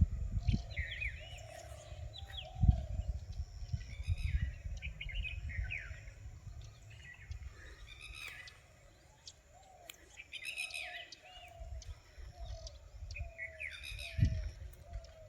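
Wild forest birds calling: repeated bursts of quick chirps and sweeping whistled notes, with a softer, lower note repeating underneath. Low thuds and rumble sound beneath the birds, the strongest about two and a half seconds in.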